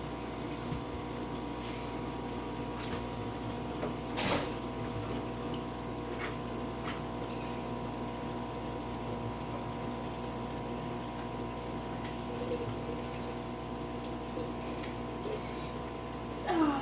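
Aquarium water pump running with a steady hum over moving water, with a few small knocks and splashes; the loudest is about four seconds in.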